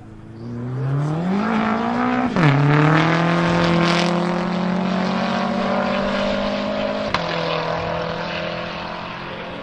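BMW M5 F10 with a twin-turbo V8 and straight pipes launching hard from a standing start in a drag race alongside a second car. The engine note climbs, drops sharply at an upshift about two and a half seconds in, then holds at high revs. There is another sharp shift near seven seconds, and the sound eases a little as the cars pull away.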